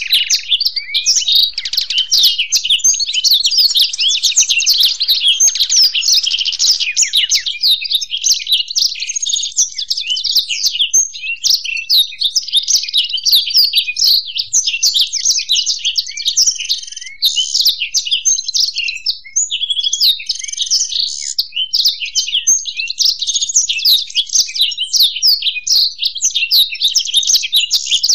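Blackthroat (black-throated canary) and European goldfinch singing: a continuous, fast, high twittering song with no real pause, only a couple of brief lulls past the middle.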